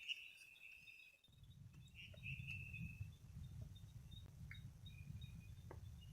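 Quiet rain forest ambience: short high chirping calls and a few faint ticks, joined about a second in by a steady low rumble.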